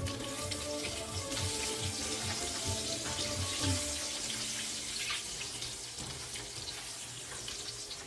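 Cubed potato frying in hot olive oil in a pan, sizzling steadily, with a few soft knocks in the first few seconds.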